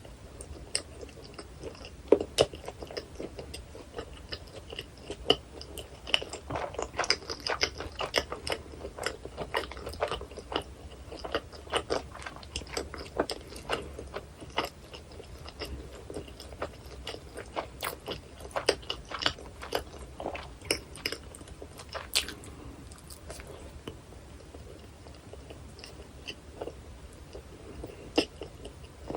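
Close-up ASMR eating sounds of a person biting into and chewing a New York–style hot dog with onion, chili and cheese sauce: a steady run of sharp crackly clicks from the mouth and food, thickest through the middle of the stretch.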